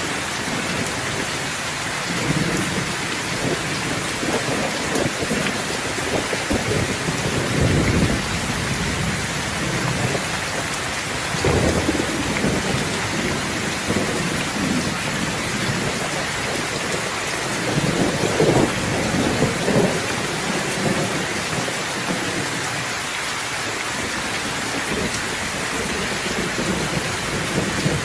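Steady heavy rain falling, with rolls of thunder rumbling over it; the thunder swells loudest about 8, 12 and 18 seconds in.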